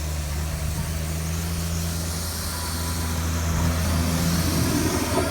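A steady, low engine-like hum, with a faint higher tone joining it about three seconds in.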